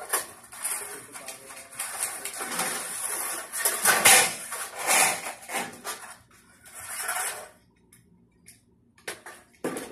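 Thin galvanized sheet-steel shed channels and panels rattling, clanking and scraping against each other and on concrete as they are handled, loudest around four and five seconds in, then fading, with a sharp clank near the end.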